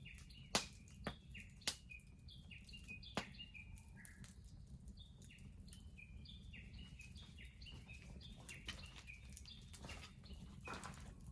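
Wood bonfire crackling, with a few sharp pops in the first few seconds over a low steady rumble, while small birds chirp over and over.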